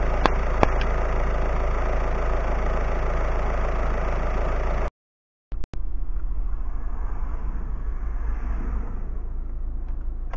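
Peugeot 308's engine idling steadily, with two sharp clicks early on; after a brief gap it is heard more quietly from inside the car.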